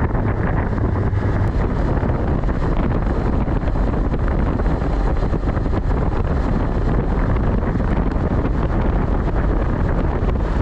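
Wind rushing and buffeting on a helmet chin-mounted action camera's microphone while riding a Honda CB500X, its parallel-twin engine running steadily underneath.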